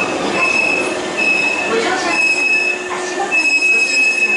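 Hankyu Kyo-train GARAKU electric train pulling into a platform and slowing to a stop, a high squeal from its braking wheels coming and going about once a second over the rumble of the cars.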